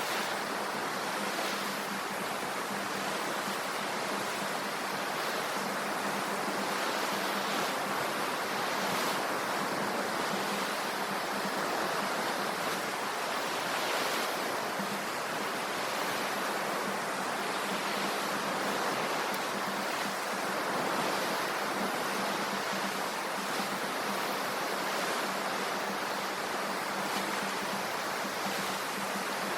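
Ocean surf washing steadily on the shore, an even rushing noise that swells only slightly, with a faint low steady hum beneath it.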